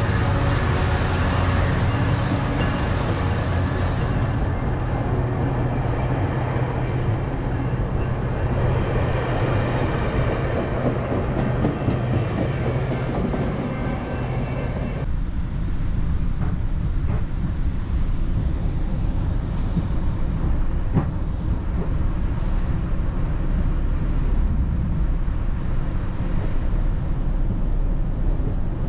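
Northstar commuter train running along the track: a steady low rumble with a few faint clicks. About fifteen seconds in, the higher-pitched noise drops away and the lower rumble carries on.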